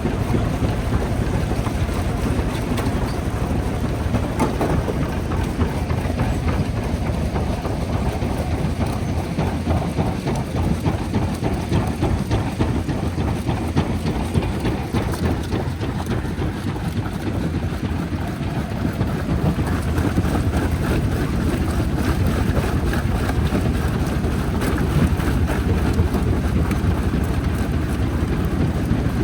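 Jaw rock crusher running under load: a steady, loud, heavy machinery din with continuous rattling and clatter of stone being broken.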